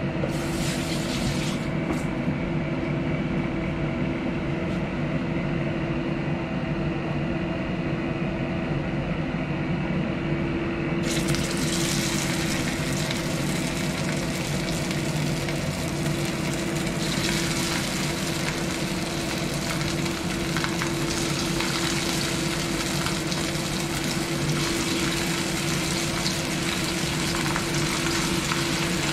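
Cornstarch-coated tofu slabs sizzling as they are laid into hot cooking oil in a stainless steel frying pan. The sizzle starts suddenly about a third of the way in and grows as more pieces go in, over a steady low hum.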